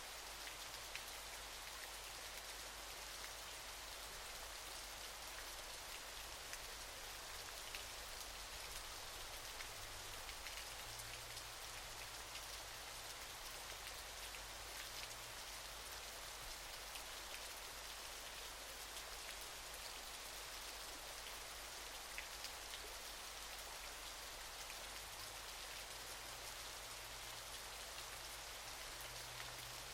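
Waterfall: a steady hiss of falling water, with fine splashing ticks through it.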